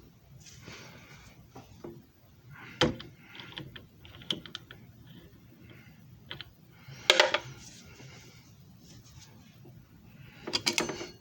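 Scattered plastic clicks, rattles and short scrapes from handling a disc repair machine, with three louder clattering knocks about three, seven and eleven seconds in.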